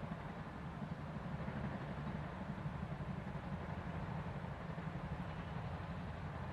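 Train rolling past, a steady low rumble that holds without a break.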